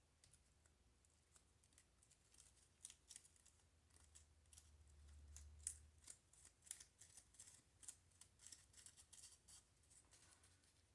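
Faint crinkling and small clicks of paper artificial sunflower petals being fluffed by hand.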